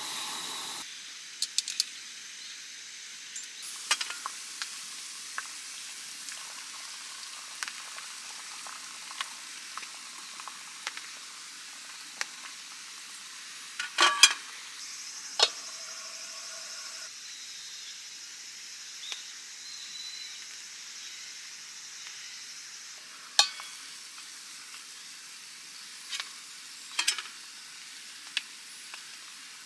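Food sizzling and crackling steadily in a pan, with scattered small clicks and a few louder sharp knocks.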